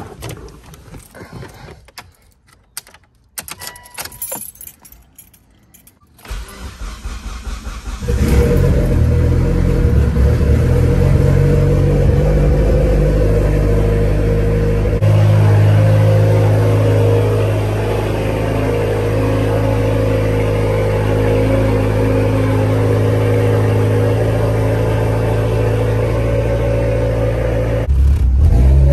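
Keys jangling and a few clicks, then a Mitsubishi Lancer Evolution X's turbocharged four-cylinder engine starts about six seconds in and runs steadily.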